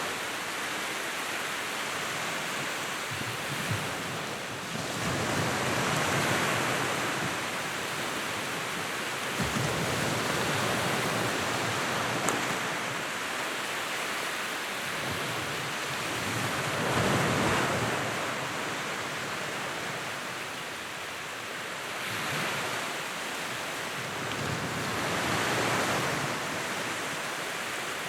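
Wood fire burning with a steady rushing hiss of flames that swells and eases every few seconds, broken by a few sharp crackles.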